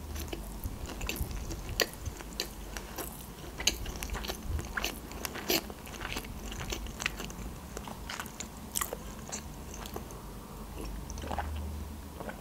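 A person chewing sushi rolls close to the microphone: irregular wet clicks and crunches of the mouth working on rice and fried rolls. Near the end she sips from a glass of water.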